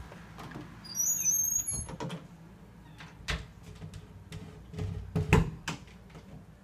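A short, high-pitched squeak about a second in, followed by a few sharp knocks and thumps, the loudest about five seconds in.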